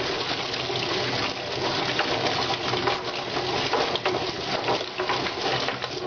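Electric chicken plucking machine running: a steady motor hum under a rush of water, with irregular knocks as the birds tumble inside.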